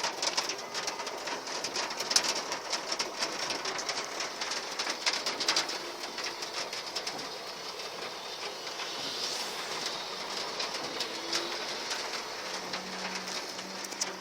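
Hail falling: a dense patter of small sharp impacts over a steady hiss, the strikes thinning somewhat about halfway through.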